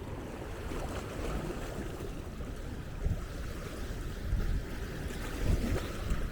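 Seaside ambience: small waves washing on a sandy shore, with wind gusting on the microphone in irregular low rumbles.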